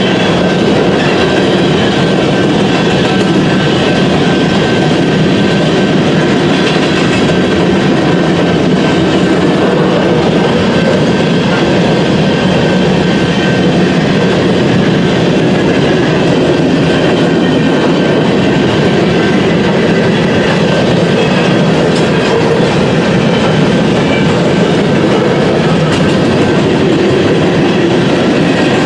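Westbound BNSF freight train's cars rolling past, a steady, loud rumble and clatter of steel wheels on the rails.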